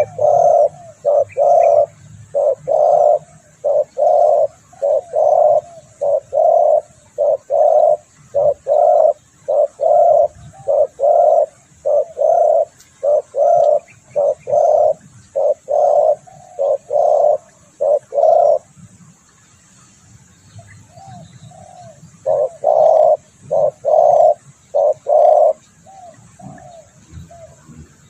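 Spotted dove cooing: a long run of loud, evenly repeated low coos, about one and a half a second, that breaks off about two-thirds through and resumes in a shorter series near the end. Faint chirps of other small birds sound behind it.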